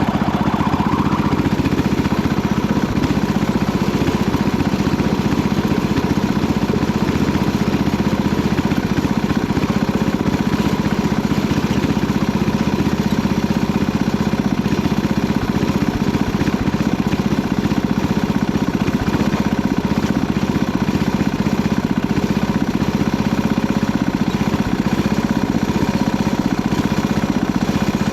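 Panzer T70 garden tractor's engine running steadily while plowing.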